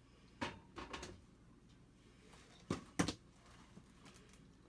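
A few light clicks and knocks of a container being pulled out and handled, the loudest a pair about three seconds in.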